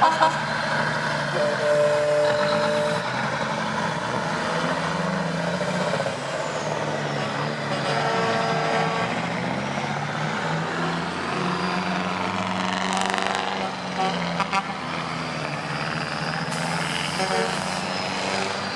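Vintage diesel semi-trucks running in a convoy, with a steady engine drone. Short horn blasts sound about two seconds in, around eight seconds in and near the end.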